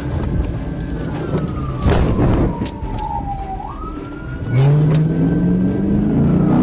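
Police siren in a slow wail, its pitch sliding down and then back up, over traffic noise. A louder, rising low drone like an engine revving up comes in about four and a half seconds in.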